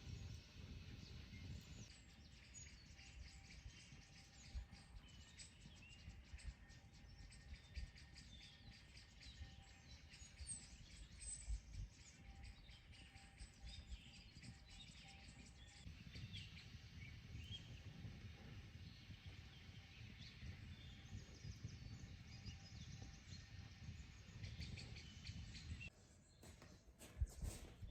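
Quiet forest ambience with faint birds chirping, over a low rumble and a few soft knocks.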